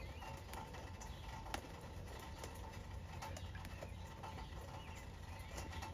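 A cat licking its rain-soaked fur: faint, irregular wet clicks and taps of tongue on fur.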